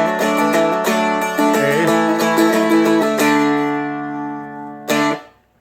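Seagull Merlin M4 played with a flatpick: a melody line with strums in between, in D, then one last strum about five seconds in that is quickly damped.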